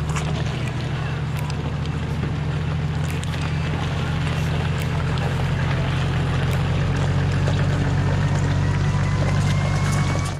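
Toyota Land Cruiser engine droning steadily while under way, with a faint whine that rises slowly in pitch over the second half.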